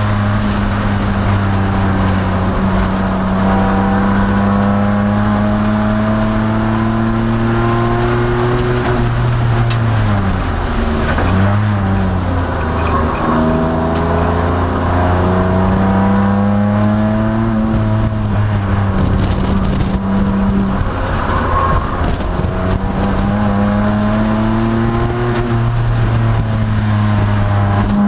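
A 2002 Nissan Maxima's 3.5-litre V6 racing at high revs. About ten seconds in, the revs drop sharply as the driver lifts off for a corner, then climb back up, with smaller dips and rises later on.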